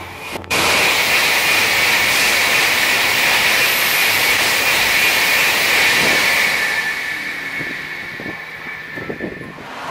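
Shinkansen bullet train passing at high speed: a loud rushing noise with a steady high whine, which starts abruptly about half a second in. Over the last few seconds it fades away and the whine drops slightly in pitch.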